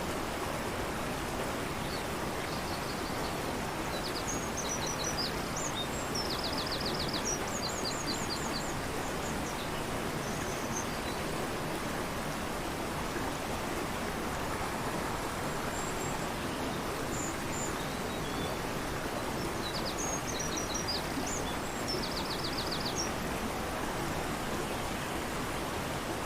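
Fast-flowing river rushing steadily, with a songbird singing high, rapid trilled phrases over it in two bouts, the first lasting several seconds and the second shorter, past the middle.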